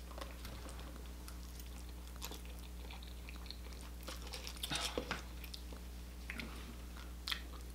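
Close-up chewing and biting of food, with small clicks of a fork against a plastic tray, over a low steady hum. A short run of louder mouth sounds comes just before five seconds in, and a single sharp click near the end.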